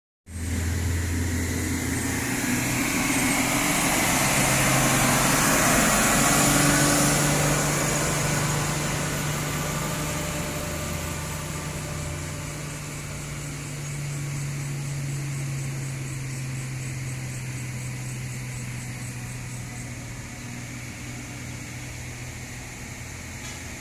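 Diesel engine of a heavy sugarcane-laden truck-trailer pulling up a steep grade at a steady labouring note, getting louder as it passes at about six to seven seconds and then slowly fading away.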